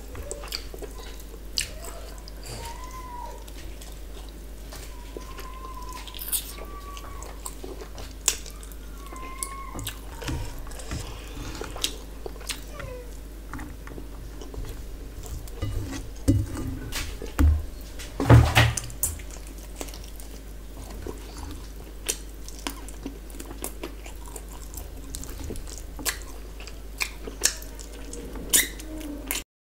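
Close-up eating sounds: wet chewing, lip smacks and mouth clicks as rice and curry are eaten by hand, with fingers scraping a steel plate. There is one louder knock about two-thirds of the way through.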